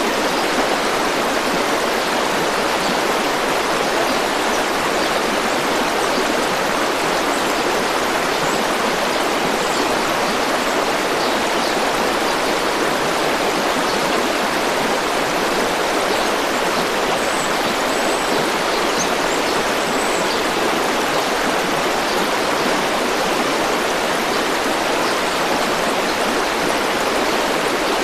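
River water rushing and flowing steadily, an even, unbroken wash of water noise.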